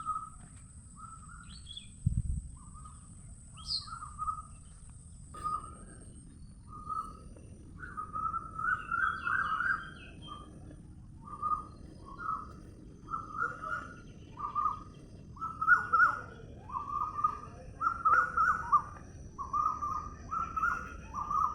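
Bird calls: a string of short, repeated calls, sparse at first and coming about twice a second from about five seconds in, with a few higher chirps over a low steady hiss. A single brief low thump comes about two seconds in.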